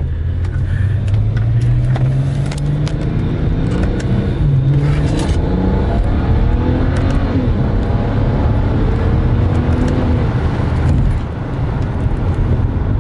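BMW 135i's N54 twin-turbo inline-six under hard acceleration. The engine note rises through the revs, drops back at each upshift and eases off near the end. It pulls clean with no misfire on a replacement cylinder 5 ignition coil.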